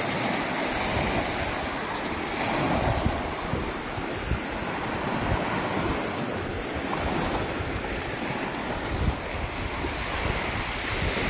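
Sea surf washing onto a beach, a steady rushing wash, with wind buffeting the microphone.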